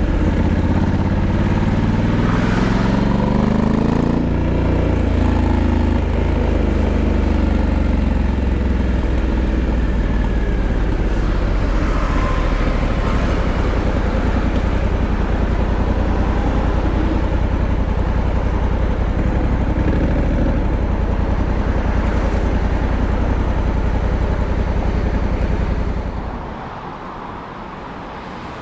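Honda Africa Twin 1100's parallel-twin engine rising in pitch through the revs over the first few seconds, then running steadily. The engine sound drops away abruptly near the end, leaving a quieter noise.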